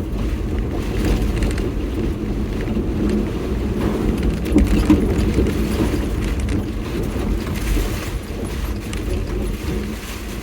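Kei truck in four-wheel drive being driven slowly over a rough, broken road, heard from inside the cab: a steady low rumble of engine and tyres, a little louder around the middle.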